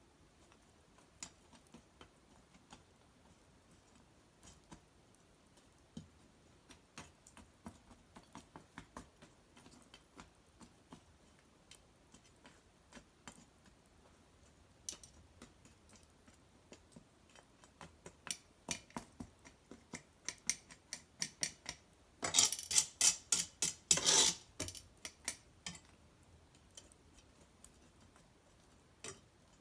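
Wood fire of cedar branches and bark crackling, with scattered sharp pops and snaps a few times a second. There is a dense run of louder crackles about 22 seconds in.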